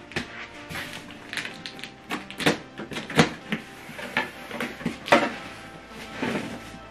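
Cardboard packaging being handled and opened: an irregular run of sharp knocks, scrapes and rustles, over faint background music.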